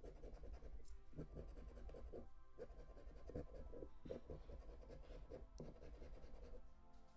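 Faint, repeated scraping strokes of a scratch-off lottery ticket's coating being scratched away.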